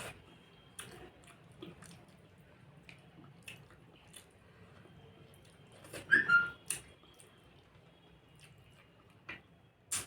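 Close-up eating sounds: soft wet mouth clicks and chewing of curry and rice, with one louder wet slurp carrying a brief squeak about six seconds in.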